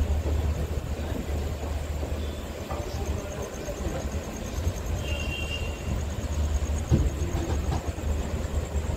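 Passenger train rolling slowly over the tracks, heard from an open coach doorway: a steady low rumble of the running coaches, with a brief high squeal about five seconds in and a single knock about seven seconds in.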